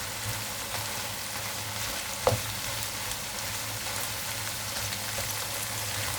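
Shrimp and vegetables sizzling in a pan: a steady frying hiss with a low hum beneath it, and a single sharp knock a little over two seconds in.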